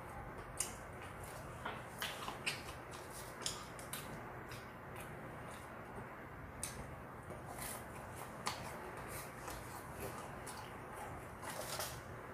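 Chewing crispy fried chicken: irregular small crunches and wet mouth clicks over a steady faint hiss.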